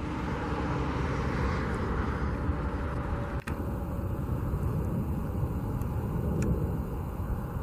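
Steady low rumble of distant engines, with a brief click about three and a half seconds in.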